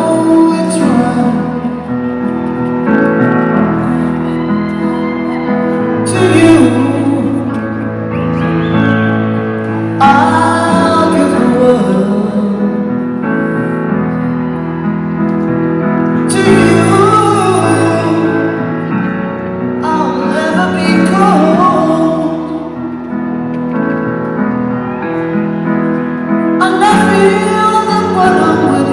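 Live ballad: a woman singing over sustained piano chords, her phrases coming every few seconds.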